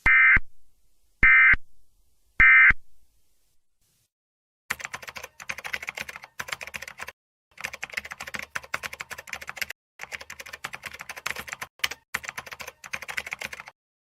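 Emergency Alert System end-of-message data bursts: three short, loud, buzzy bursts about a second apart. Then long stretches of dense crackling clicks, broken by short gaps.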